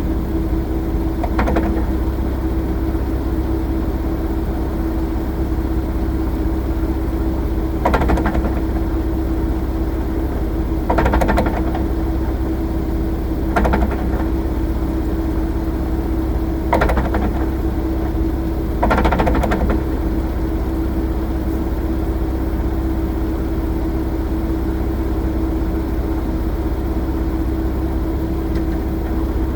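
Nissan 370Z's V6 running steadily, with six short clunks at irregular intervals over its steady drone. This is the clunking noise that the owner suspects comes from the driveshaft.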